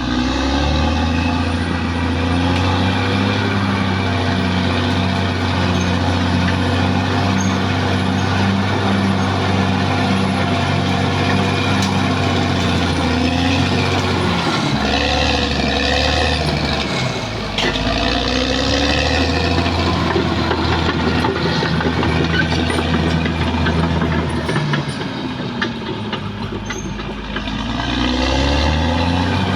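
Caterpillar D6R XL bulldozer's diesel engine running steadily under load, its pitch sagging and climbing back a little past halfway, then dipping and rising again near the end.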